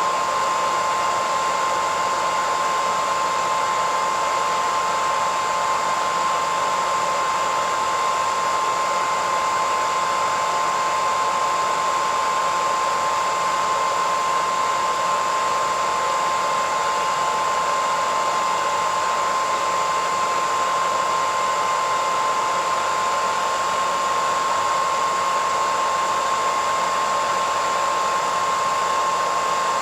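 Hair dryer running steadily: an even rush of blown air with a steady whine from its motor.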